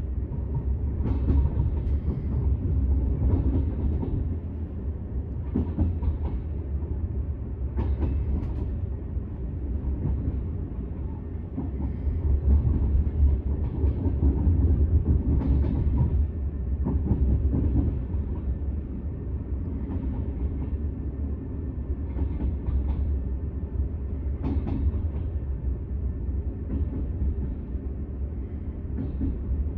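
Intercity train heard from on board: a steady low rumble with irregular sharp clicks from the wheels running over the track.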